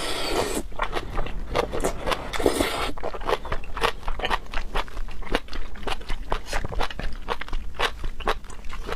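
Close-miked chewing of food, a steady run of crisp crunching and mouth clicks, with two short hissing rushes, one at the start and one about two and a half seconds in.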